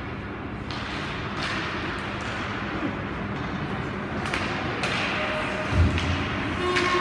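Scattered sharp knocks of hockey sticks and pucks in an ice arena over a steady hall noise, about six in all, with one louder low thump near the end.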